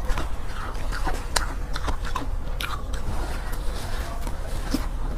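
Soft, powdery ice being bitten and chewed with a quick, irregular series of crisp crunches.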